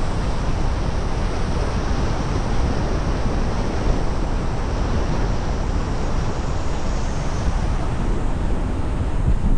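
Steady wind buffeting and tyre-and-road noise from a car driving along a road, with a strong low rumble.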